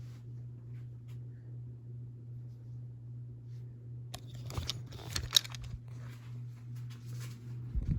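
Harbor Breeze Ocracoke ceiling fan motor running with a steady low hum. About four seconds in, a run of sharp clicks and rattles lasts a few seconds, and a low thump comes near the end.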